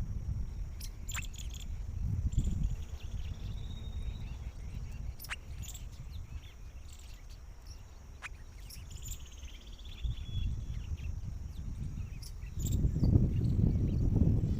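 Outdoor ambience: a steady high insect drone, a few short chirps and scattered clicks over a low rumble that gets louder near the end.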